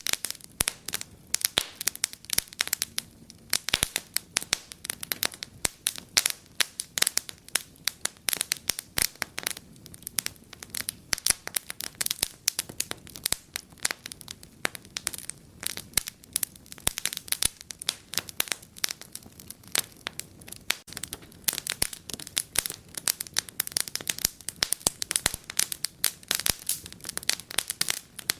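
Wood fire crackling in a fireplace: dense, irregular sharp pops and snaps, several a second, over a faint low rumble of the flames.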